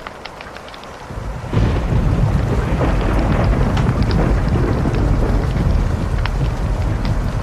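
Wood fire crackling with sharp pops, and about a second and a half in a loud, deep roll of thunder swells in and rumbles on.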